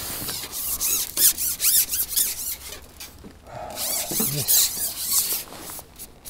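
Loud rubbing and scraping right against a clip-on microphone, coming in uneven bursts, with a short squeak a little over three and a half seconds in.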